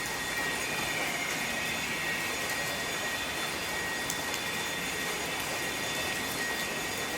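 Rain falling inside a limestone cave: a steady hiss of water with scattered small drips, and a faint steady high tone running through it.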